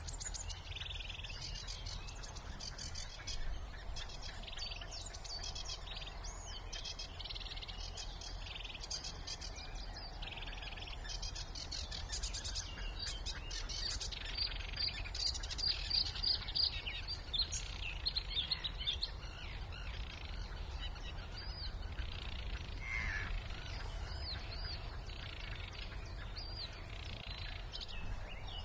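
Several songbirds singing at once in a spring reserve chorus, overlapping phrases with a louder run of quick repeated notes about halfway through. A steady low rumble lies underneath.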